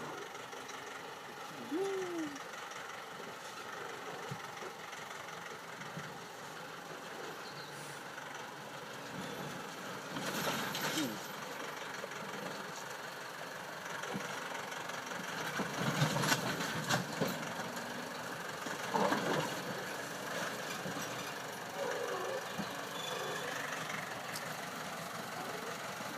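Tractor engine running steadily under way, with louder jolts and clattering now and then as it rides over a rough track, about a third of the way in and again in the second half.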